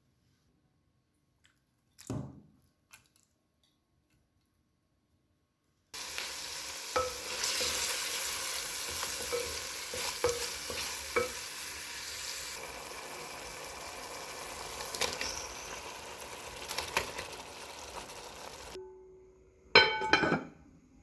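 Food sizzling in a frying pan while it is stirred, with scattered knocks of a utensil against the pan. The sizzling starts suddenly after a few seconds of near silence with one soft knock, and cuts off near the end, followed by a loud clatter.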